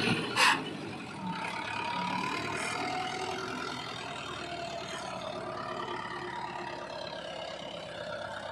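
Mahindra Yuvo 575 DI tractor's diesel engine running steadily, with one sharp knock about half a second in.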